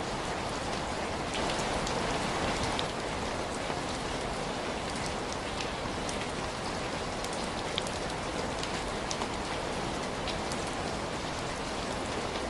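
Steady rain falling, a constant hiss with scattered sharp ticks of individual drops.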